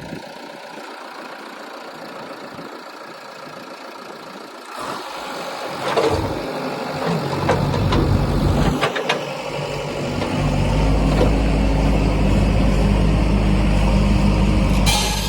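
Heavy diesel engine running under load, quiet at first, then growing louder about five seconds in, with a few knocks, and settling into a loud, steady drone from about ten seconds in.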